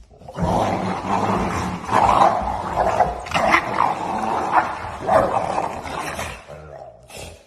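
A dog growling and snarling, with repeated louder outbursts of barking.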